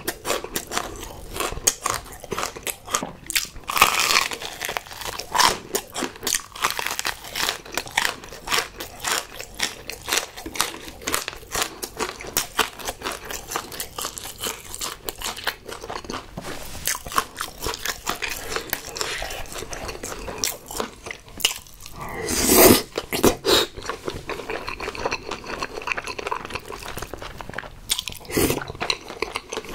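Close-miked chewing of a bite of crumb-coated, deep-fried Korean hot dog: rapid crisp crunches of the fried crust, with a louder burst about two-thirds of the way through. Near the end, wet chewing of a mouthful of saucy tteokbokki.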